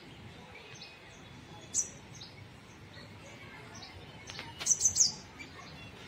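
Birds chirping: one sharp, high chirp about two seconds in, then a quick run of several loud chirps near the end, over faint chirping in the background.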